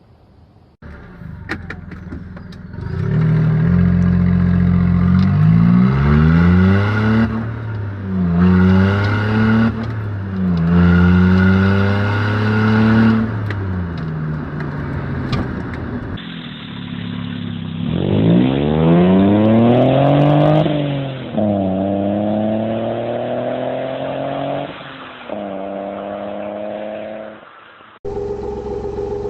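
Three-cylinder car engines being revved in a few spliced clips: repeated rev blips that climb and fall back, then after a cut a sweep up and down followed by held revs, with another cut near the end.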